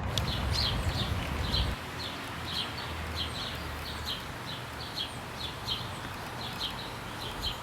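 Outdoor ambience with short high bird chirps repeating about twice a second over a steady hiss. A low rumble underneath stops about two seconds in.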